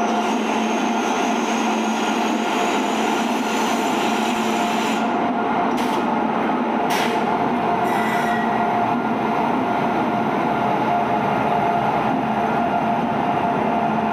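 Indian Railways electric locomotive pulling a passenger train slowly into a platform: a steady hum with wheel and rail noise, and two sharp clicks about six and seven seconds in.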